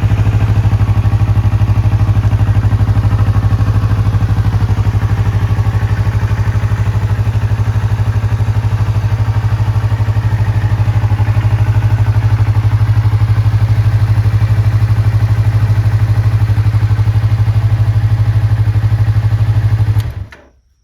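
2020 Yamaha YZF-R25's 249 cc parallel-twin engine idling steadily through a Y's Gear PRUNUS slip-on muffler. Near the end the engine is switched off and the sound stops within a second.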